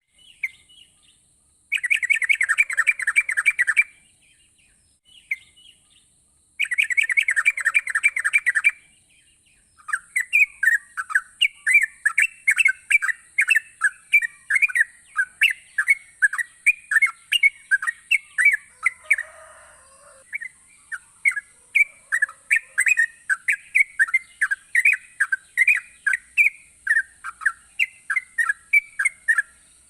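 Yellow-vented bulbul (trucukan) singing vigorously: two dense chattering bursts of a couple of seconds each, then a long run of short, clear notes at about two a second.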